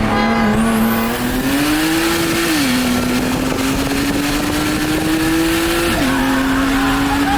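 Turbocharged BMW straight-six accelerating hard at full throttle, its engine note climbing in pitch and dropping sharply at two upshifts, about two and a half and six seconds in, during a street race.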